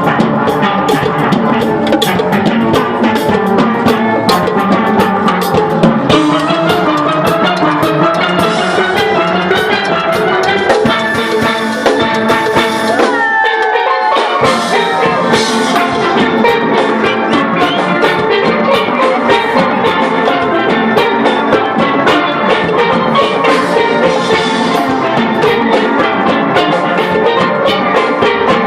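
Steel band playing a lively tune on steelpans over a steady drum beat, the pans ringing out in quick repeated notes.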